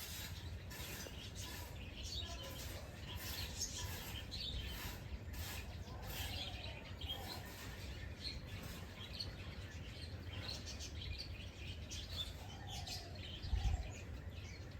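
Several songbirds chirping and twittering at once, in many short calls, with a few lower sliding calls near the end. A steady low rumble runs underneath, and a brief low thump comes shortly before the end.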